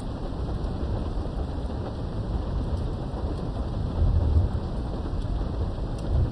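Steady rain with a low rumble of thunder, heard from behind a window; the rumble swells louder about four seconds in.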